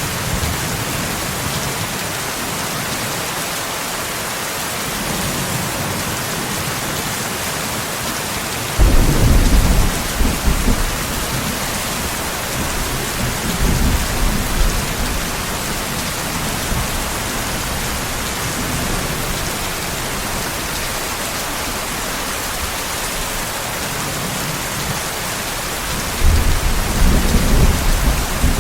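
Steady rain falling, with rumbles of thunder, the biggest about nine seconds in and another in the last couple of seconds.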